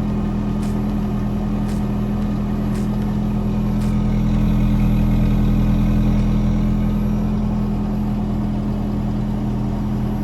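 Toyota Kijang Kapsul engine idling steadily through an aftermarket racing muffler tip, a low even exhaust hum.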